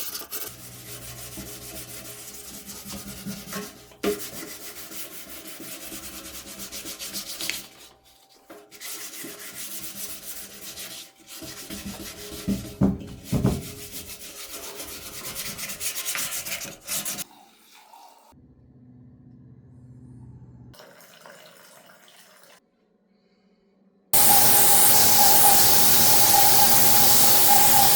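Hand sanding and rubbing on motorcycle parts, an uneven run of scraping strokes that stops and starts across short clips. About 24 seconds in, a loud steady hiss starts suddenly and becomes the loudest sound.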